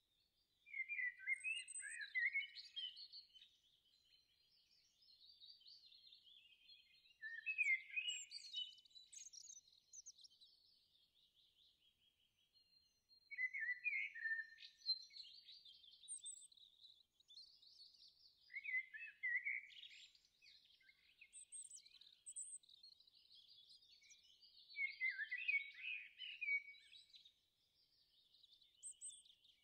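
Songbirds singing: chirping, warbling phrases that come back every five or six seconds over a softer continuous twitter, all quiet.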